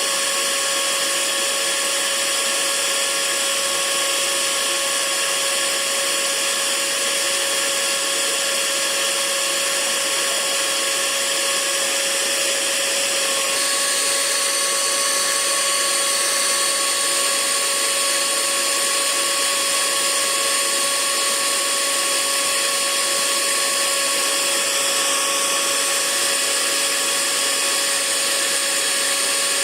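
Hair dryer running steadily: a constant blowing hiss with a steady motor whine. The whine shifts slightly in pitch about thirteen seconds in.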